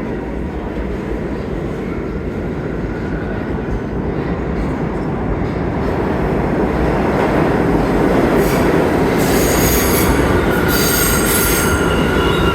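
New York City subway train running into the station, its rumble building steadily louder, with steel wheels squealing on the rails in the last few seconds.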